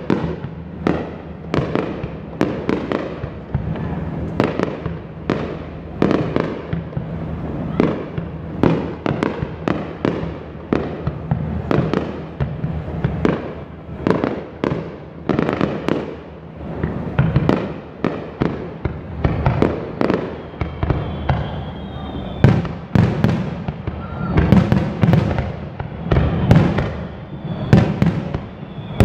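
Fireworks display: aerial shells bursting in a continuous barrage, about one to two bangs a second, each with a short echoing tail. The bangs grow louder in the last third.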